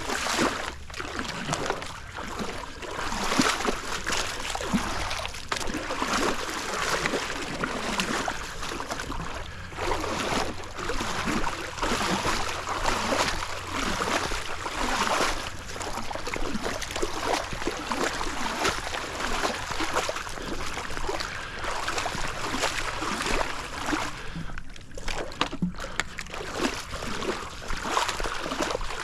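Pool waterline tile being scrubbed with a tile pad on a pole, the water sloshing and splashing against the wall in irregular strokes, with a short lull near the end.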